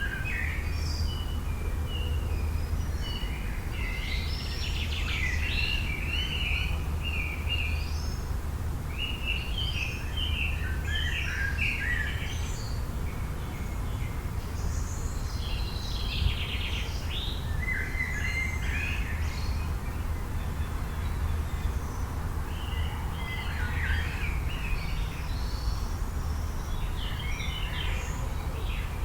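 Several songbirds chirping and trilling in overlapping bursts, over a steady low rumble.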